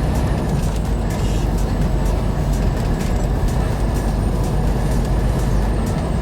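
Steady low rumble of a semi-truck driving, engine and road noise heard from the cab, with faint rapid ticks high above it.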